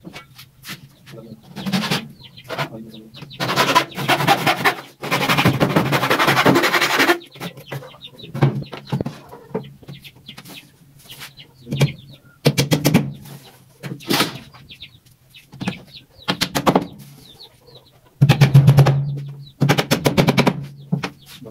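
Chickens clucking and calling in irregular bursts over a steady low hum.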